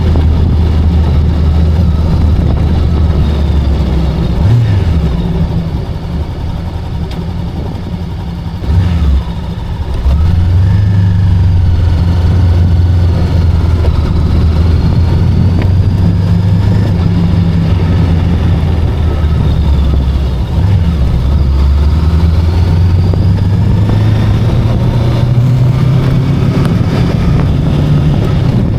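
VOGE 525DSX parallel-twin motorcycle engine running under way. Its note drops briefly twice, about four and nine seconds in, then climbs slowly near the end as the bike speeds up.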